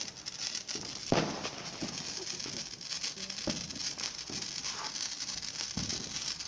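Sparkler fizzing and crackling, with several sharp pops, the loudest about a second in.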